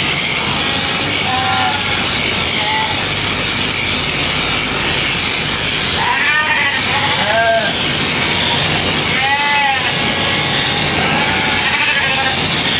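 Sheep bleating several times, the loudest calls about six and nine and a half seconds in, over the steady buzz of electric sheep-shearing clippers.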